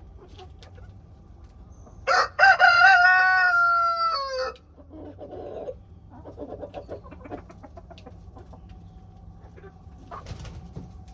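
A rooster crows once, about two seconds in: one loud call of about two and a half seconds whose pitch drops at the end. Softer clucking from the chickens follows.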